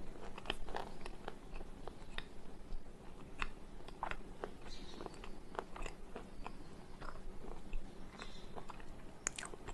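White slate pencil being bitten and chewed, giving sharp, irregular crunches about one or two a second.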